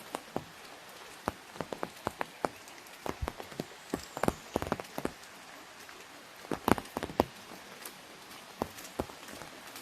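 Raindrops tapping on an umbrella overhead: irregular sharp taps, bunched more thickly in places, over a steady light hiss of rain.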